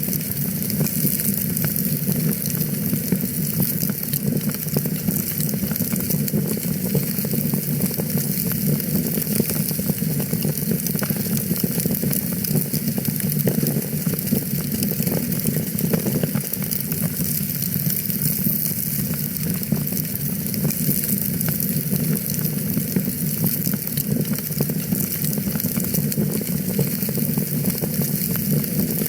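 Fireplace fire crackling steadily: a dense, continuous run of small pops and snaps over a steady low rush of the flames.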